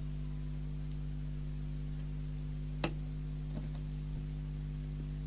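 Steady low electrical mains hum, with a single sharp click nearly three seconds in.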